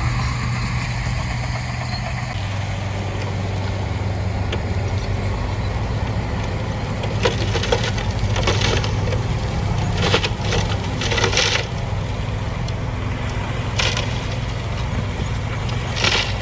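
Heavy diesel earthmoving machine running steadily, with loose rock and gravel crunching and scraping in several bursts over the second half.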